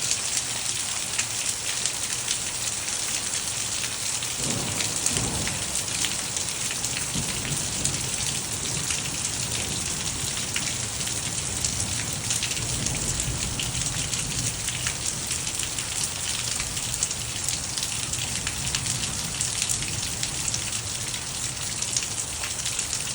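Heavy rain pouring down: a steady, dense hiss full of the patter of drops striking surfaces. A low rumble swells about five seconds in and dies away over the following several seconds.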